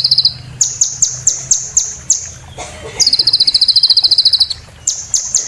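A sunbird ('kolibri') singing a high-pitched song. Runs of sharp, quickly repeated chips alternate with a very fast trill, which is held for about a second and a half in the middle.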